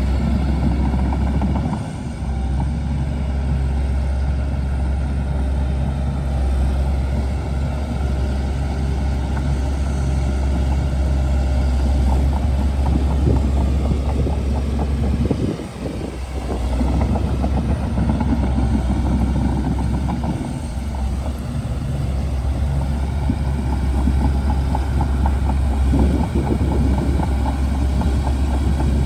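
Shantui DH17C2 bulldozer's diesel engine running steadily, with brief dips in level about two seconds in, near the middle, and about two-thirds of the way through.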